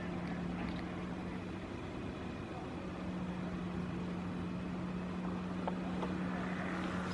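A boat engine running steadily, a low hum that firms up about three seconds in, with a couple of faint clicks near the end.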